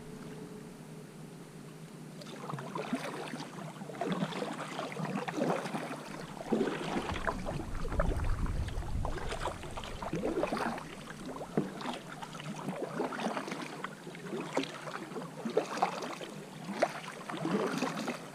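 Kayak paddle strokes: water splashing and dripping in an irregular run a little over once a second, starting about two seconds in.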